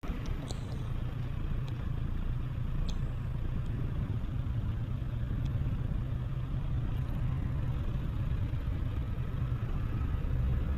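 Honda CB650R's inline-four engine running steadily with a low rumble and no revving.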